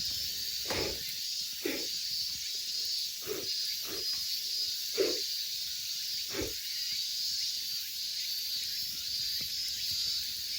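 Wood campfire burning with a steady hiss and about six short crackles spread over the first seven seconds.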